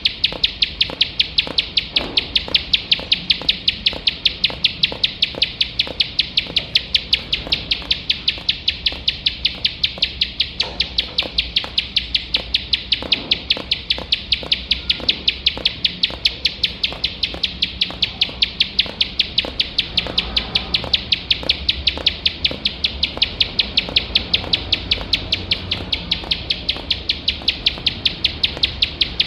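Plain prinia (ciblek sawah) singing a continuous rapid-fire run of sharp, clicking notes, about four to five a second, without a break.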